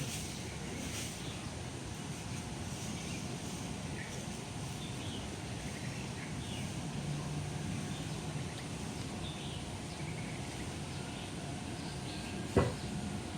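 Aviary ambience: a steady background hum with scattered faint bird chirps, and a single sharp knock near the end.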